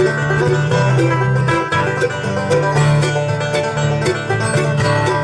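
Acoustic bluegrass string band playing the instrumental opening of a song, plucked strings over a moving low bass line.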